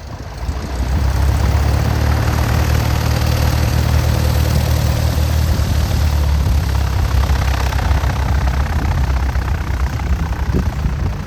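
Light single-engine propeller plane's piston engine running loud and close, swelling about a second in and easing near the end.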